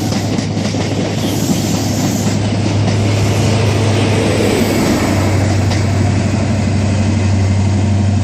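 High Speed Train's diesel power car running under power with a steady low engine drone, along with rumble and clickety-clack from the coaches' wheels as the train pulls out.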